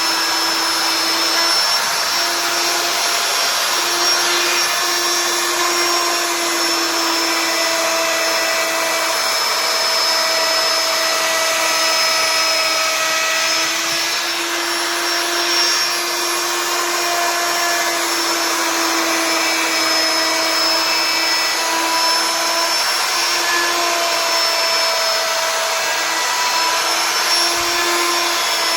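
CNC router spindle running steadily while it carves wood: a constant whine over a rushing noise, its pitch wavering slightly as the bit cuts.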